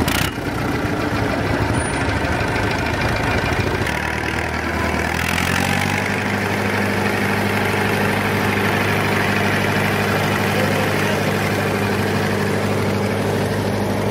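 Old tractor engine idling steadily, a low, even engine hum that settles and steadies about five seconds in.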